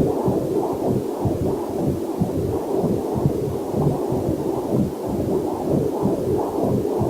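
Fetal Doppler heart monitor pulsing with a whooshing heartbeat, about two to three beats a second, with a faint waterfall hiss underneath.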